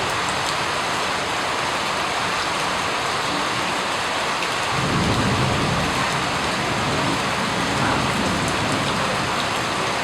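Steady rain falling, with a low rumble of thunder that rolls in about halfway through and fades over the next few seconds.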